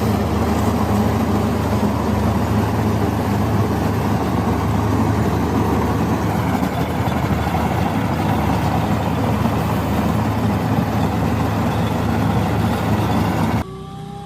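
Tractor engine running steadily, its note softened somewhat by a muffler. Near the end it cuts abruptly to a quieter engine rising in pitch.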